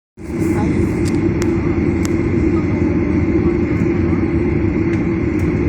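Airplane engines running with a steady, loud rumble, joined by a few faint clicks.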